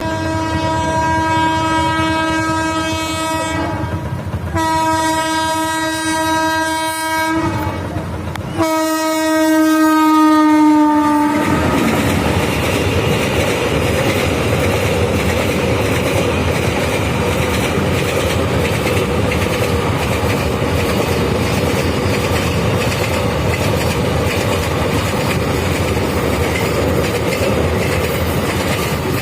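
WAG9 electric locomotive horn sounding three long blasts, the third dropping in pitch at its end. The locomotive's loaded container wagons then roll past with a steady rumble and the clickety-clack of wheels over the rail joints.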